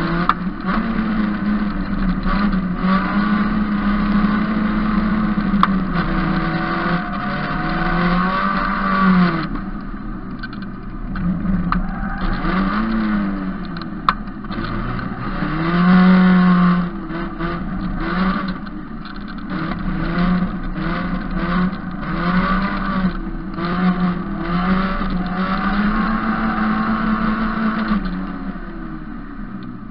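Onboard sound of an Opel GSI-engined autocross prototype driven hard on a loose track, the engine revving up and falling back over and over through gear changes and corners. Near the end the driver lifts off and the revs and loudness fall away.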